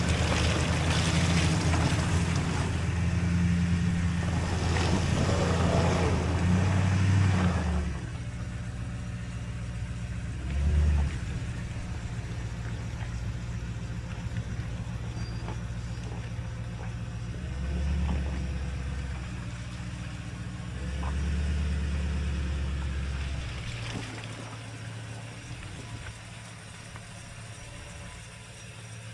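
Toyota truck engine running as it drives over soaked, soft ground. It is louder for the first several seconds, then quieter, with a few short revs.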